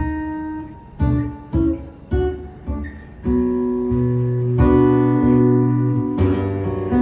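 Live band music without singing: strummed acoustic guitar chords over low bass notes. A few separate chord strokes come first, then fuller, held chords from about halfway.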